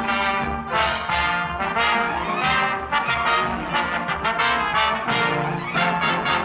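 Brass-led orchestral cartoon score, with trombones and trumpets playing quick, punchy phrases of short accented notes.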